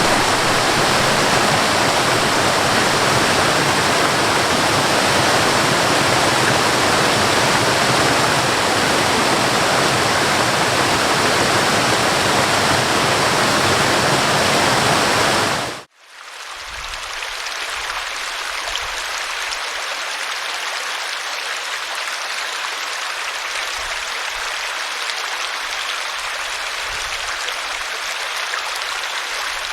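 Waterfall water rushing in a steady, loud roar of noise. About halfway through, it cuts out abruptly for a moment and gives way to a quieter, thinner rush of falling water with less depth.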